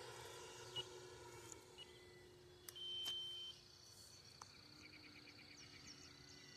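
Quiet outdoor background with a faint steady hum. A single high-pitched beep, a bit under a second long, comes about three seconds in, and faint rapid ticking follows near the end.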